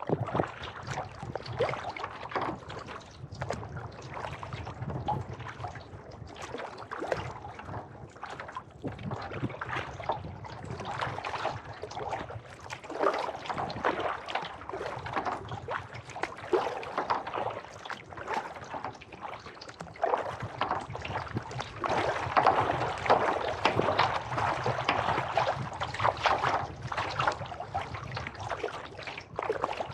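Kayak paddle strokes in lake water: the blades dip and pull with splashing and dripping. The splashing gets louder about two-thirds of the way through.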